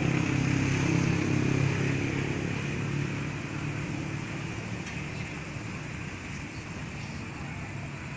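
Diesel train engine running with a low steady drone, loudest at first and fading gradually as the train moves away.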